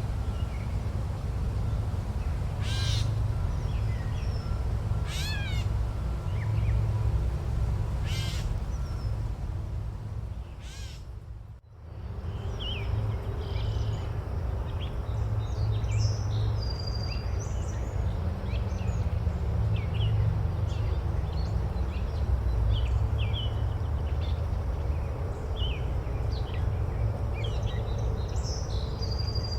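Forest ambience: a steady low rumble with three loud bird calls about two and a half seconds apart, then a brief fade about a third of the way in, after which many small birds chirp in a busy chorus.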